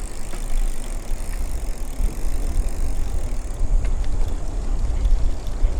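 Wind buffeting the microphone of a head-mounted camera on a moving bicycle, a steady low rumble.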